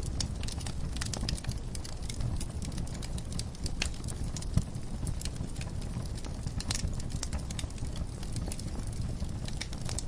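Wood fire crackling in a fireplace: irregular sharp pops and snaps over a steady low rumble of the flames, with one louder pop about four and a half seconds in.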